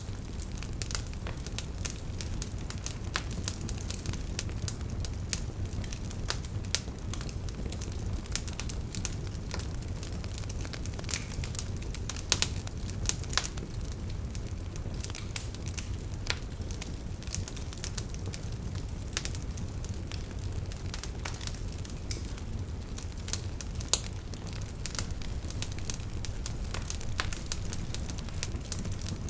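Wood campfire burning and crackling: frequent irregular sharp pops and snaps over a steady low rumble of the flames.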